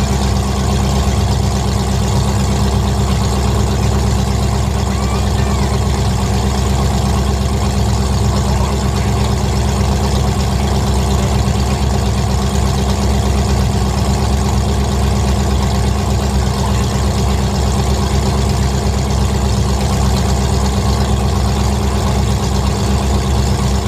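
Demolition derby car engine idling steadily, a loud even rumble without revs or impacts.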